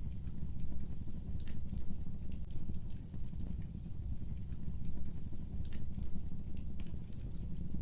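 Fireplace fire crackling: irregular sharp pops and snaps, a few a second, over a steady low rumble of burning flames.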